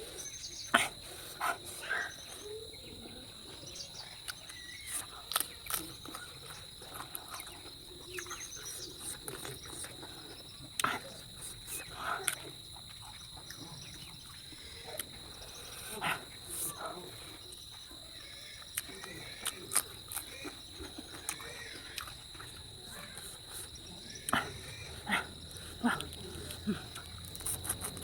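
Eating sounds: chewing, lip smacks and sharp mouth clicks coming irregularly every second or so. Behind them runs a steady high-pitched chirring of crickets.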